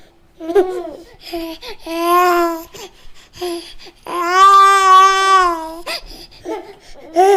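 A small child's voice babbling and squealing in short syllables and two long drawn-out high-pitched vowel sounds, the second held for nearly two seconds.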